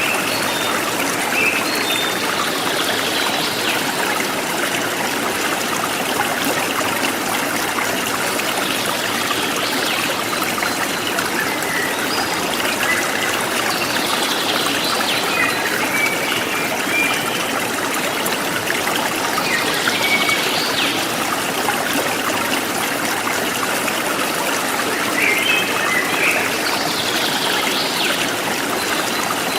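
Forest stream flowing steadily, with birds chirping and trilling at intervals over the water.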